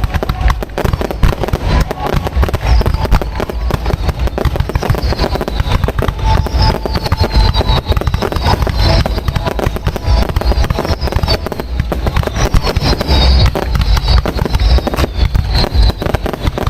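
Fireworks display firing continuously at close range: a dense run of shell bursts and crackling, with high falling whistles repeating through the second half.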